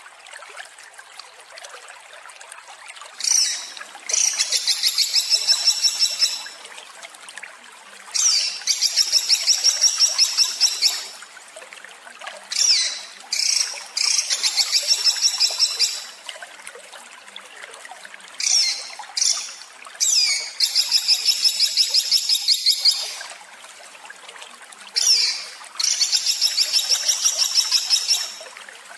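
A songbird's harsh, rapid-fire 'tembakan' song: about five high-pitched bouts, each a few seconds long, made of fast repeated notes and led by a few short chirps. A steady trickle of water runs under it.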